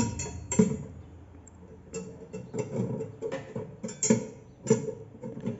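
Irregular metallic clicks and knocks, some with a short ring, from tools and metal parts being handled and fitted while dismantling a washing machine's agitator assembly.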